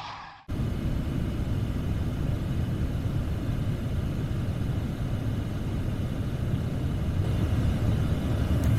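Steady low rumble of a car on the move, starting abruptly about half a second in.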